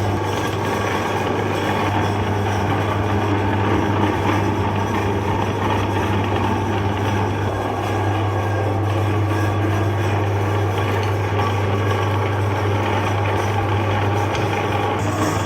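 Electric meat grinder running steadily with a constant motor hum, grinding ice cream bars.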